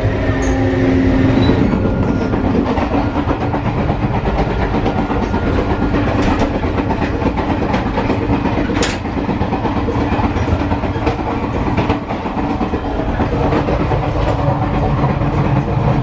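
Indian sleeper train carriage running along the track, with a steady rumble and the clatter of the wheels over the rails, heard from inside the coach. A low hum sounds in the first second and a half, then stops.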